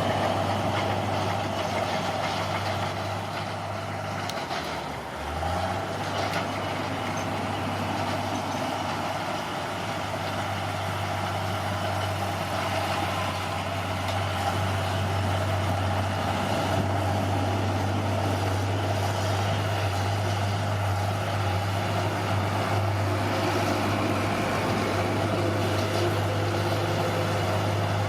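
Heavy diesel engine of earthmoving machinery running steadily at a low, even pitch, dropping briefly in revs about five seconds in and then picking back up.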